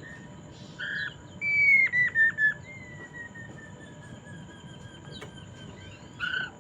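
Poksay mandarin (hwamei laughingthrush) singing a clear whistled phrase: a loud whistle followed by three quick down-slurred notes, then a long, faint, slowly falling whistle, with another short note near the end.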